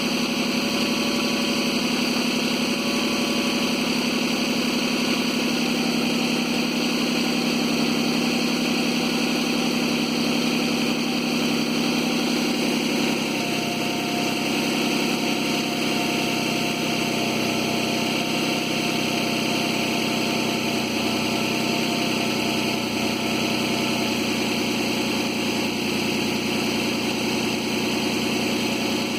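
Suzuki Grand Vitara 2.7's V6 engine idling steadily, its note shifting slightly about thirteen seconds in. The owner has filmed it for extraneous noises.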